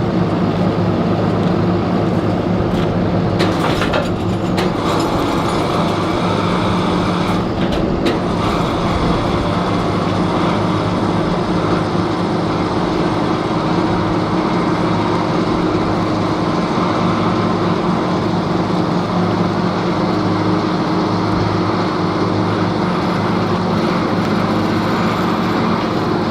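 A heavy truck's engine running steadily at one unchanging speed, a low hum with overtones. It is broken twice by short rattles, about 4 and 8 seconds in.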